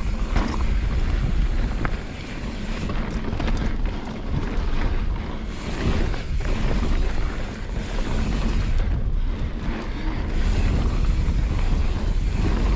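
Wind rushing over the microphone and a mountain bike's tyres rolling over a dirt trail while riding, a steady loud rush with slight dips in level.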